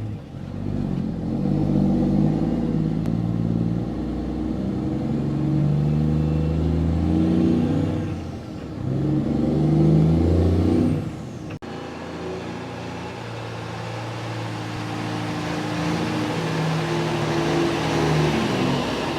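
Mack semi truck's diesel engine pulling away and accelerating through the gears, its pitch climbing and falling back with each shift. After a brief break about two-thirds of the way in, the engine runs at a steadier pitch.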